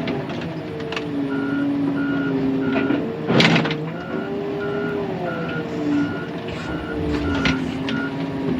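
Wheel loader backing up: its reversing alarm beeps about twice a second while the diesel engine rises and falls in pitch. A loud clank about three and a half seconds in, with smaller knocks throughout.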